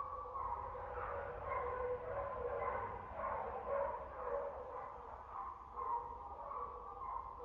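Dogs barking continuously, the barks running into one another.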